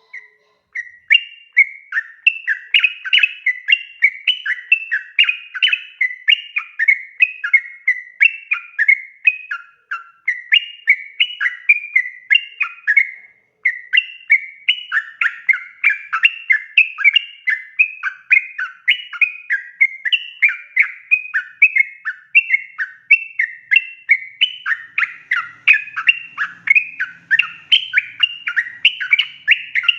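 Yellow-vented bulbul (trucukan) singing a long, rapid run of bubbly chattering notes, the continuous 'ropel' song used as a lure to get other bulbuls to answer. It starts just under a second in and breaks off briefly twice, around ten and thirteen seconds in.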